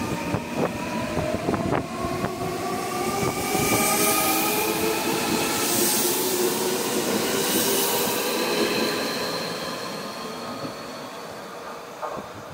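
Electric commuter train accelerating, its motor whine a set of tones rising steadily in pitch, with a few sharp clicks from the wheels. It is loudest around the middle and then fades as the train draws away.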